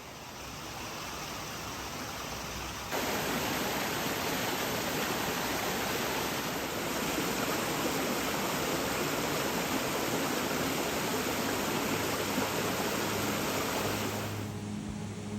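Rushing water of a waterfall and mountain stream: a steady hiss of white water that jumps louder about three seconds in and drops back near the end.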